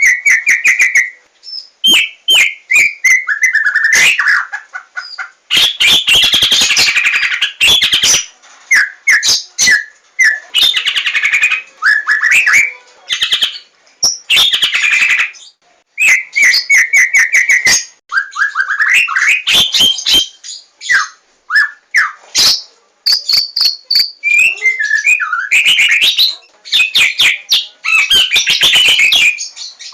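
White-rumped shama of the Javan form (larwo) singing loudly. It gives varied phrases of rapid trills and series of whistled notes falling in pitch, separated by short pauses.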